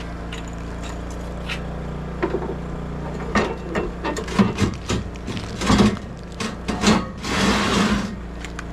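Wood being worked: irregular wooden knocks and rasping, scraping strokes over a steady low hum, with a longer rasping stretch near the end.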